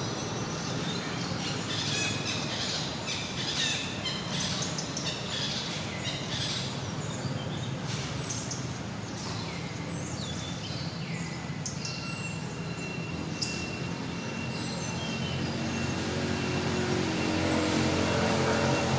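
Many short, high chirps and squeaks from animals, one call held as a steady high tone for a few seconds in the second half, over a steady low hum. Near the end a low motor-like drone grows louder.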